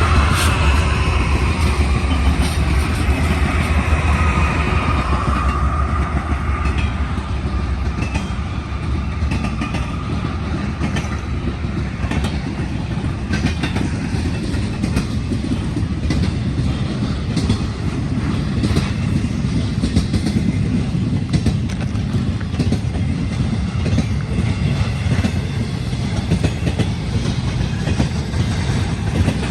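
Freight train rolling past. A deep locomotive rumble and whine fades over the first few seconds, then the empty single-stack spine cars clatter by with a steady clickety-clack of wheels over the rail joints.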